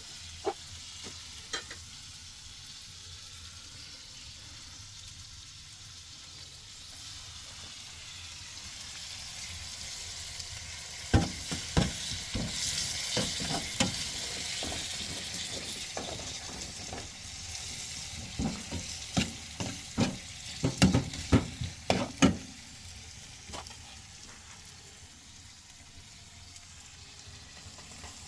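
Food sizzling as it fries in a pan, with a run of sharp clinks and knocks from a utensil stirring it through the middle of the stretch.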